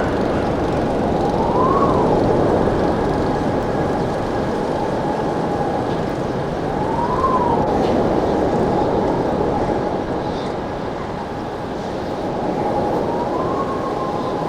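A siren wailing slowly, its pitch rising and falling three times about five seconds apart, over a steady rush of wind noise.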